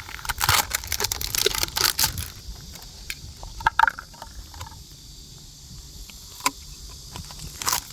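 Thin plastic PET bottle and its plastic label crackling as they are handled and the label is peeled off. A dense burst of crackles comes in the first two seconds, then scattered single clicks and crinkles.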